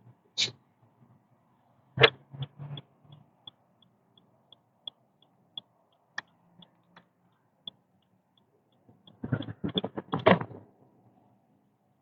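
Car turn-signal indicator ticking evenly, about three clicks a second, from about two to eight seconds in. Several louder knocks come with it, and a quick cluster of clattering knocks about nine seconds in.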